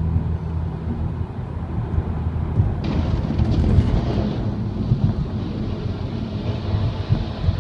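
A motor vehicle's engine running with a low, steady drone that gives way to a rough, noisy rumble, which turns louder and harsher about three seconds in.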